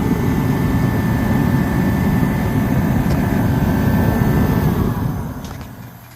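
Dyna-Glo KFA80H forced-air heater, burning diesel, running with a steady roar from its burner and fan and a constant whine. About five seconds in it is switched off and the fan spins down, its whine falling in pitch.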